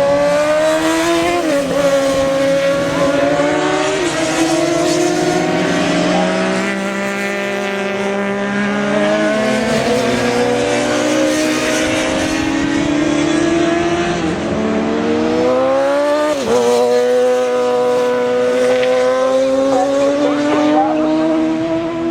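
Several racing motorcycle engines accelerating hard together, each one rising in pitch and dropping back at every gear change.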